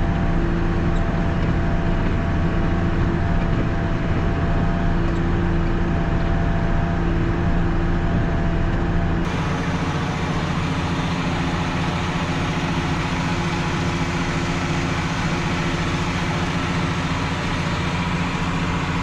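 JCB Fastrac 1125 tractor running steadily, a constant engine drone with a steady hum; the sound turns brighter and hissier about nine seconds in.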